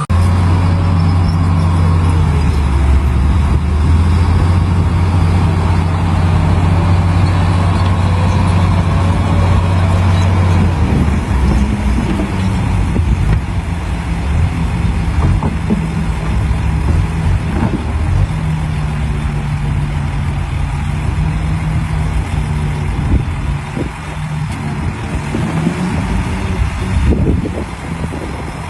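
Diesel engine of heavy earthmoving machinery running at a steady low note, which shifts and turns uneven about ten seconds in, with a few short knocks later.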